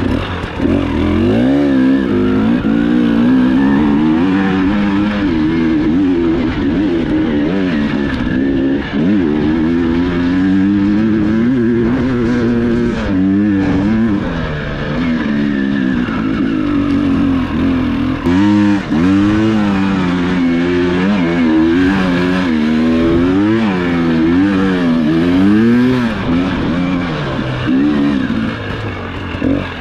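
Enduro motorcycle engine revving up and down under constantly changing throttle, its pitch rising and falling every second or so, with brief dips where the throttle is shut.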